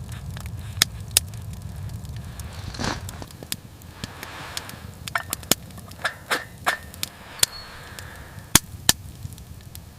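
Wood fire crackling, with irregular sharp pops and snaps over a low rumble that fades out about three seconds in.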